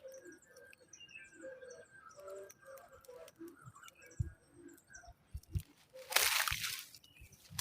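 Rustling and handling noise with a few soft knocks, and a louder burst of rustling about six seconds in. Faint high chirps of small birds sound in the background.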